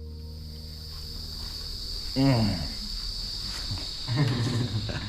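Steady high-pitched insect chorus, a constant shrill drone. About two seconds in, a short human voice falls in pitch, and some talk comes near the end.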